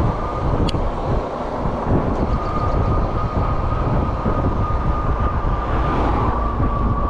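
Lectric e-bike's electric motor whining at a steady pitch under throttle, over a continuous rumble of wind and road noise. A single sharp click comes about two-thirds of a second in.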